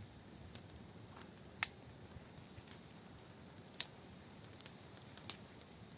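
A wood campfire crackling, with a few sharp, isolated pops spaced irregularly over a faint steady background.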